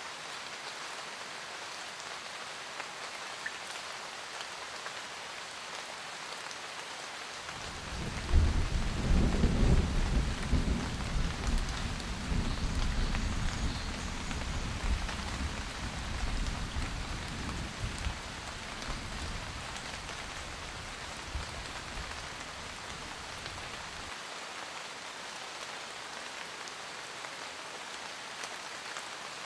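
Steady rain falling on a surface, with a loud thunder rumble that breaks in suddenly about seven seconds in and slowly fades away over some fifteen seconds.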